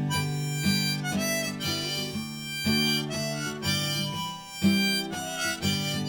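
Instrumental break on acoustic guitar, strummed about once a second, with a held-note melody line sounding over it.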